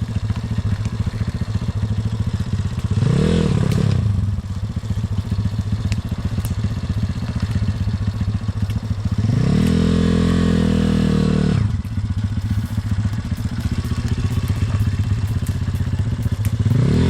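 Pit bike engine running at low revs, blipped briefly about three seconds in. It is then held at higher revs for about two seconds around the ten-second mark and revved again briefly at the end.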